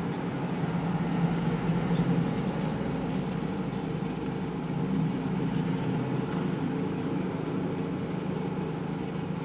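Steady hum of the 2002 Dodge Grand Caravan's 3.8-litre V6 idling, with no revving.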